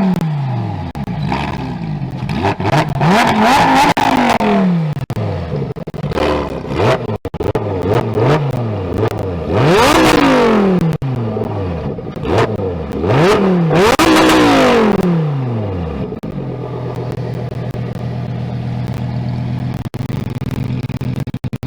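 Lamborghini Huracán Tecnica's naturally aspirated 5.2-litre V10 being free-revved over and over, some quick blips and some longer pulls to high revs, each rev falling away again. About 16 seconds in it settles to a steady idle.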